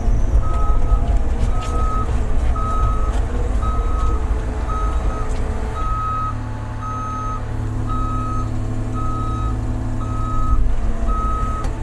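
Large excavator tracking with its travel alarm beeping steadily, about once a second, over the loud, steady running of its diesel engine.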